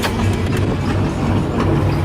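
Straight-piped, carbureted 350 small-block V8 idling with a steady, pulsing low exhaust note, and a sharp click right at the start.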